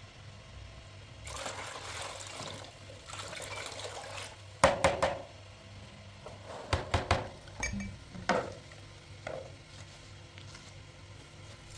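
Water running or being poured in two short spells, followed by kitchenware clinking and knocking, the sharpest clink a little before the middle.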